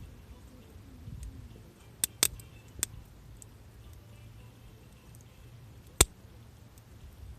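Wood burning in a campfire, crackling: three sharp pops about two seconds in and a single louder crack about six seconds in, over a low steady rumble.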